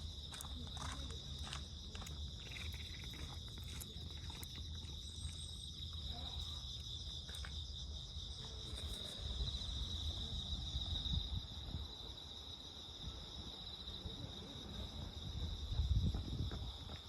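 Steady high-pitched insect chorus, a continuous trill of crickets, with scattered small clicks in the first half and a low rumble that swells near the end.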